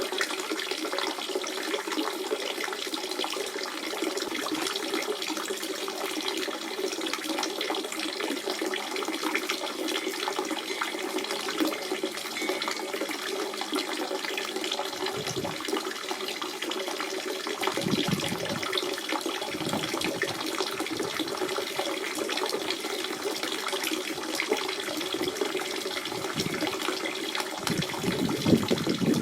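Natural spring water running and splashing steadily, with a few deeper gurgles coming and going.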